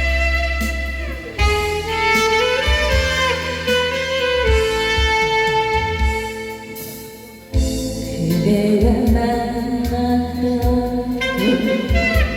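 Instrumental break in a live trot song: a saxophone plays the melody over electronic keyboard backing with a steady bass beat. The music thins out briefly about seven seconds in, then comes back in fully.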